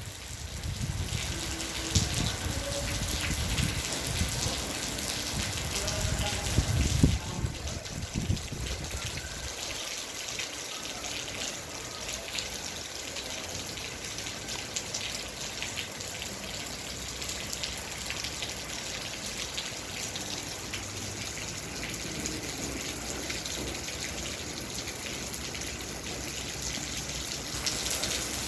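Steady rain falling, a dense patter of drops. During the first eight seconds or so there is also a low rumble with a few knocks, the loudest about seven seconds in; after that only the rain.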